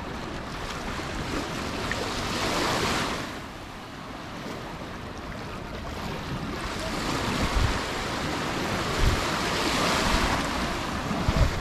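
Sea waves breaking and washing up the shore: one swell about three seconds in, then a longer one building through the second half. There are low buffets of wind on the microphone, the strongest near the end.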